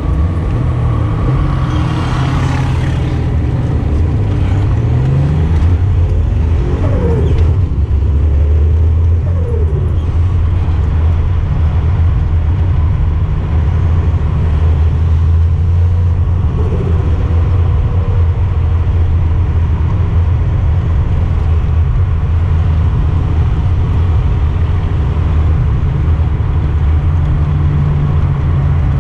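Datsun 240Z engine running under load on the move, heard from inside the cabin. It revs up with a rising pitch about four to six seconds in, then holds a steady drone.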